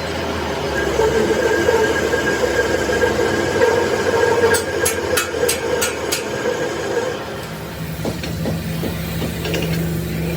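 A workshop machine running with a steady hum whose pitch drops about 7.5 seconds in. A quick series of about six sharp metallic clicks comes a little after halfway, and more clicks follow near the end.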